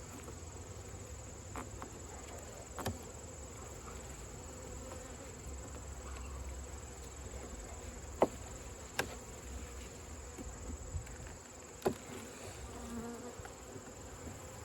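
Honeybees buzzing steadily around an opened hive, with a few sharp clicks scattered through, the loudest about eight and twelve seconds in.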